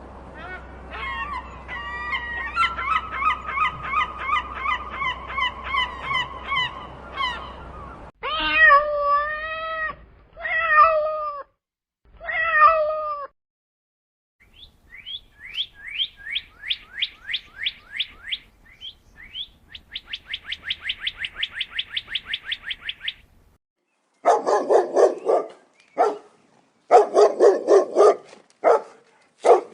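A sequence of different animal calls: rapid repeated calls for the first several seconds, then three cat meows, then a fast run of high chirps, and loud short calls in quick succession near the end.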